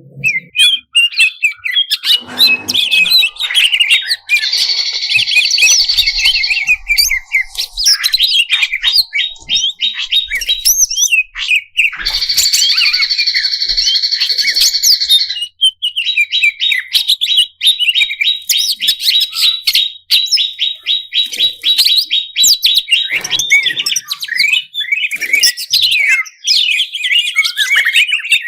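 Cucak cungkok songbird singing a continuous, varied song of fast chattering notes and whistles. Two buzzy passages are followed by a long rapid trill.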